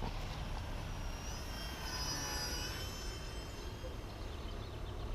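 Electric RC aerobatic airplane in flight: the whine of its small brushless motor and 10-inch propeller, shifting slightly in pitch and loudest about two to three seconds in.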